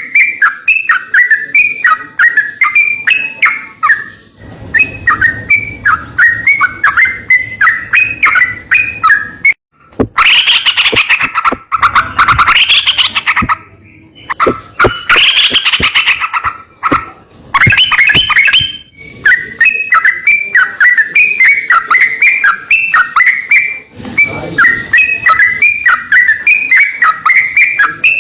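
A crocokan songbird singing continuously in quick, repeated chirping phrases, several a second. In the middle comes a louder, fuller run of song.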